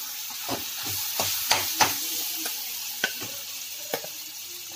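Cooked khichdi being spooned into a kadhai of masala frying in ghee: a steady sizzle, with a steel spoon knocking and scraping against the pans about seven times.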